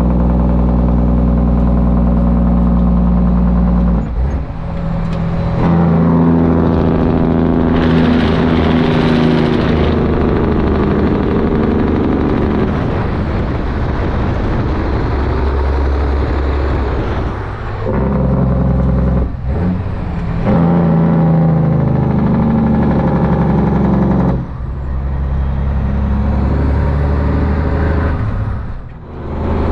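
Kenworth semi-truck's diesel engine pulling under load and working through the gears, the engine note breaking off briefly and picking up again at each of several shifts.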